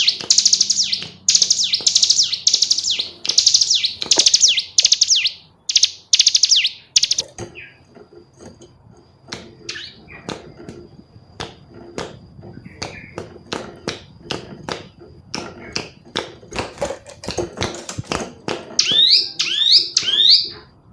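Female bar-winged prinia (ciblek gunung) calling: loud, rapid trilling phrases repeated one after another for about seven seconds, then breaking off. A quieter stretch of scattered clicks and a faint thin high tone follows, and a few short high chirps come near the end.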